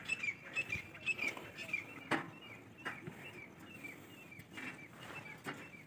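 Birds chirping in short, repeated high calls, with a sharp knock about two seconds in and a few fainter clicks.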